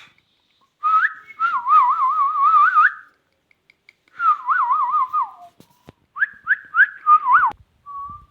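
Pet parrot whistling: three warbling phrases with a fast wavering pitch, the third made of short upward-swooping notes, then a few brief whistles near the end.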